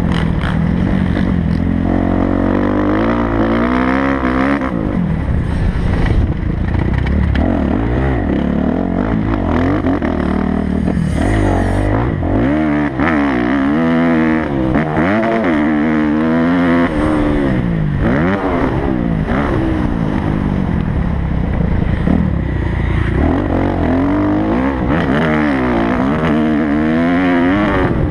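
Kawasaki motocross bike's engine, loud and close, revving hard and falling off again and again as the throttle is opened and shut around the track, its pitch climbing and dropping every second or two.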